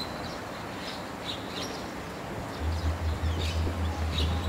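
Birds chirping in short, high calls over faint outdoor hiss. About two and a half seconds in, a low steady hum comes in and becomes the loudest sound.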